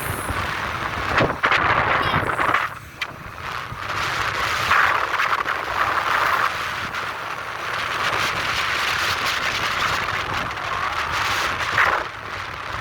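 Wind rushing and buffeting over the microphone on a moving bike, with road and vehicle noise underneath; it dips briefly about three seconds in and again near the end.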